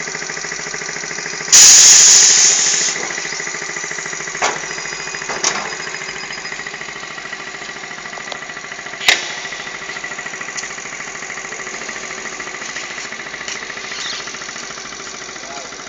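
Motorcycle engine running steadily with a fast, even beat. About a second and a half in, a loud hissing burst lasts about a second, and a few sharp clicks follow later.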